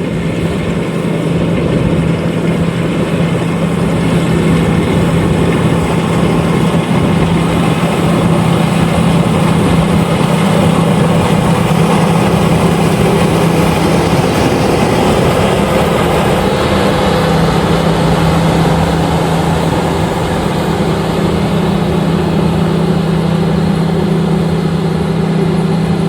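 LOVOL RG130EVO combine harvester running steadily: its engine and machinery keep up a constant hum under a busy mechanical wash.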